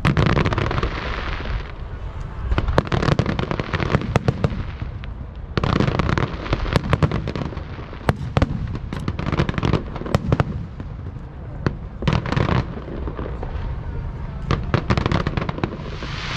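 Aerial fireworks going off in rapid volleys: sharp bangs and crackles come in dense clusters, with brief lulls between them.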